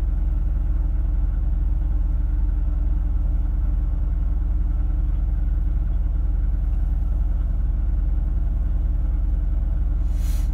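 2006 Chevy Equinox's 3.4-litre V6 idling steadily on a cold start in sub-zero weather, now firing on all six cylinders after earlier running rough on a dead cylinder. A brief hiss sounds near the end.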